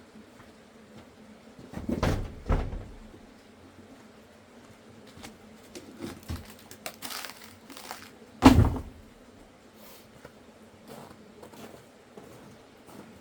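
A few dull thumps and knocks: two close together about two seconds in and a heavier one about eight and a half seconds in, with brief rustling between.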